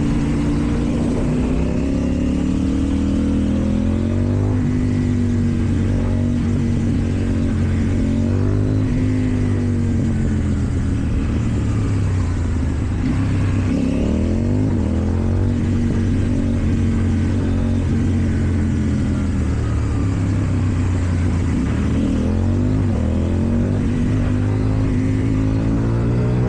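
KTM 790 Duke's parallel-twin engine through an Akrapovic exhaust, ridden at low to moderate revs, its pitch rising and falling again and again with short blips of throttle.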